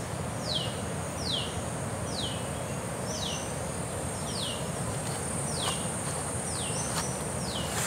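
A bird calling again and again, each call a quick falling whistle, about one a second, over a steady high insect hum and outdoor background noise.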